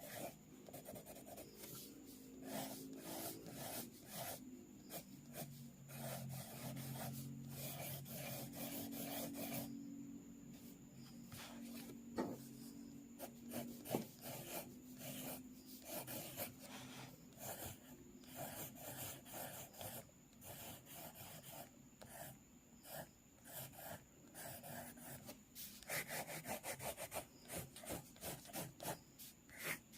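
Quick, scratchy sketching strokes on paper, repeated rapidly and unevenly, with two sharper taps around the middle.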